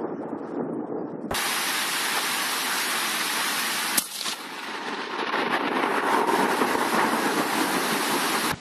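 Heavy rain pouring down in a steady hiss, growing louder after the middle, with a single sharp click about four seconds in.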